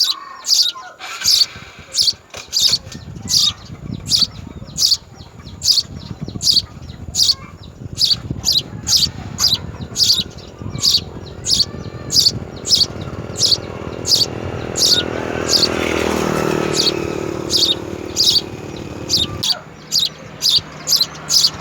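House sparrow chirping over and over, short high chirps at about two a second. A low rumble swells underneath in the second half and drops away near the end.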